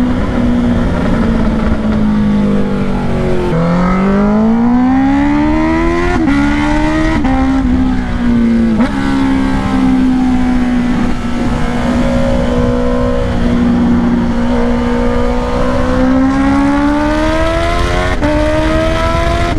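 Honda CBR650R inline-four running through a Black Widow exhaust with its dB killer removed, very loud, while riding. The revs drop sharply about three and a half seconds in and climb for a couple of seconds. There are a few quick dips around the gear changes, then the engine holds a fairly steady pitch before rising again near the end.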